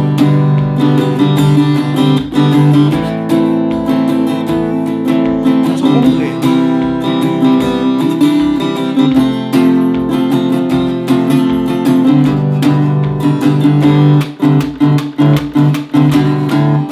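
Acoustic guitar strumming a rhythmic campfire pattern through the chords C major, A minor, F major and G. Near the end the strums turn short and choppy.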